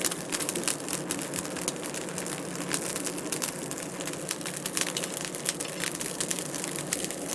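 Wood fire crackling in a fireplace: a dense, irregular run of small snaps and pops over a steady background of the burning fire.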